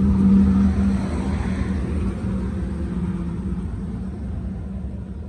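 An engine running with a steady low hum and rumble, growing gradually quieter.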